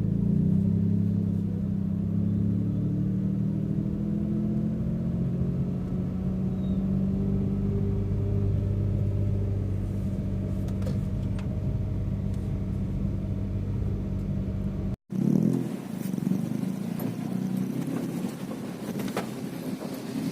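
Car running on the road with a steady low engine drone. About 15 s in it cuts abruptly to a rougher, noisier stretch of driving with a few light knocks.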